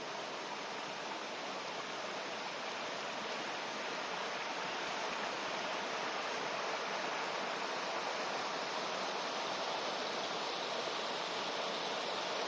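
Mountain river running, a steady rush of water that grows slightly louder about four to six seconds in.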